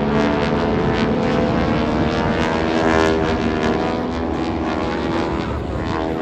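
North American AT-6 Texan trainers flying past, their Pratt & Whitney R-1340 radial engines and propellers droning loud and steady. The engine pitch drops about halfway through as the aircraft pass.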